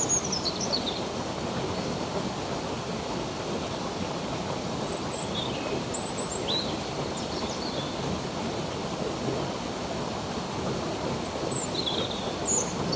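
Running water flowing steadily, with birds chirping over it: a descending twittering call at the start, a few short chirps around the middle, and more near the end.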